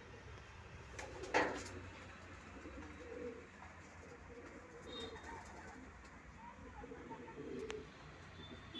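Pigeons cooing repeatedly in low, soft calls, with one short, sharp noise about a second and a half in.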